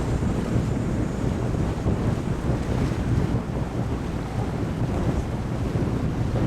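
Wind buffeting the microphone on a moving tour boat, over the boat's engine running low and steady.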